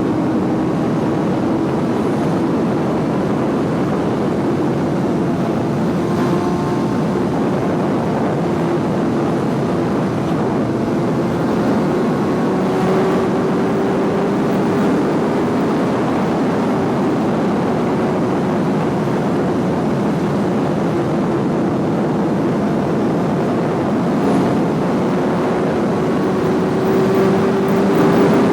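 Suzuki GSX-R sport bike's inline-four engine cruising under steady throttle, its engine note climbing slowly and steadily, over a constant rush of wind and road noise.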